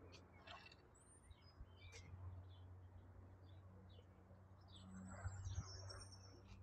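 Faint, scattered bird chirps and short calls over a low, steady hum that swells slightly about five seconds in.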